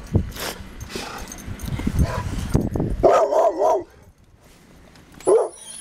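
A dog gives a drawn-out, wavering whine-like call about three seconds in and a short bark-like call near the end, with scattered thumps as the dogs move about in the snow.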